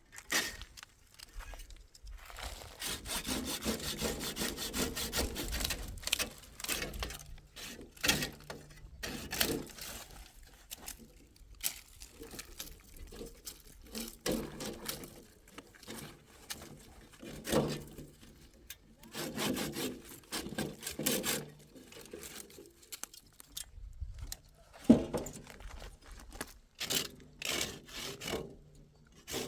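Rough scraping and rubbing strokes, repeated in irregular runs with short pauses between them, like wood being sawn or rasped by hand.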